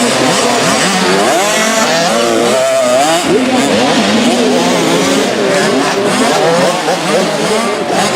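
Several 65cc two-stroke motocross bikes racing together, their engines revving up and down over one another without a break.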